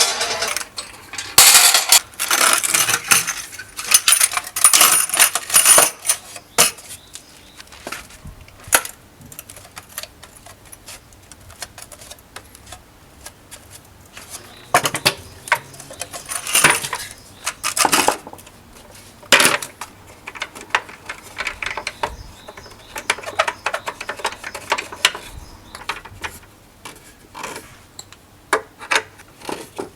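Hard metal pieces clinking and clattering as they are handled and set down. There is a dense run of rattling in the first few seconds and another about halfway through, with scattered single knocks between and after.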